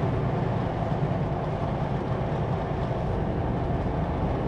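Steady drone of a Kenworth W900L semi truck's diesel engine and road noise heard inside the cab while cruising at highway speed.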